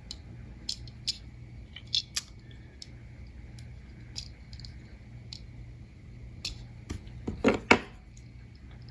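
Scattered small clicks and taps from handling a diecast model car, with two louder clicks near the end, over a low steady hum.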